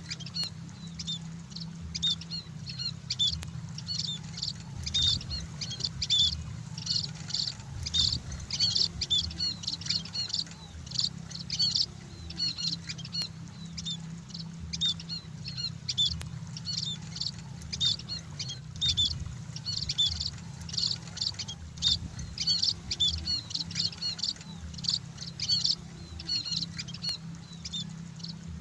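Scaly-breasted munia chirping: quick, high, short calls repeated several times a second throughout, over a steady low rumble.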